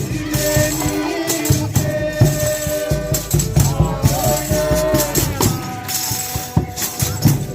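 Folia de Reis music: long held melodic notes over a steady beat of drum strikes, shakers and tambourine.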